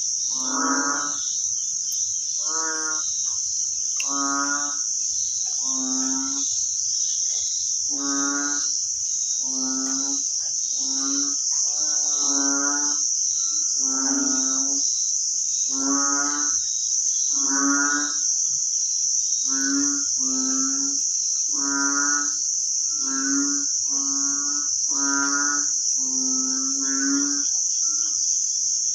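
A long run of short, same-pitched animal calls, about one a second and sometimes two close together, over a steady high insect drone.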